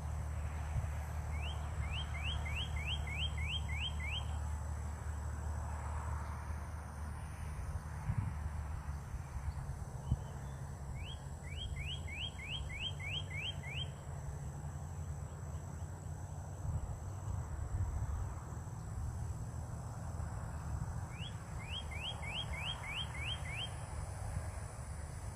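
A songbird singing a quick series of rising whistled notes, about eight to a phrase, repeated three times about ten seconds apart, over a steady low rumble.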